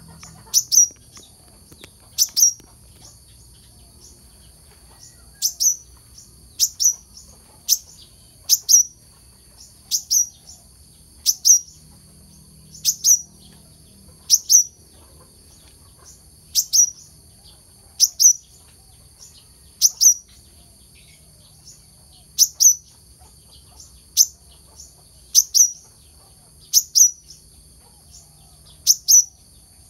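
A kelicap mayang kelapa (korlap) giving its call: sharp, high chirps, mostly in quick pairs that each drop in pitch, repeated about every one and a half seconds. A steady high-pitched whine runs underneath.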